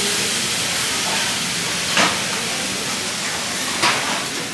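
Buffet restaurant ambience: a steady hiss with two short clinks of tableware, one about two seconds in and one near the end.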